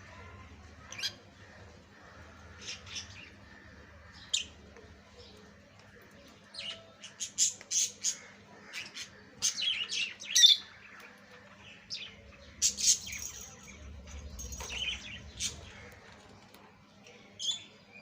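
Lovebirds giving short, sharp squawks and chirps, a few scattered calls at first, then coming thick and fast through the middle.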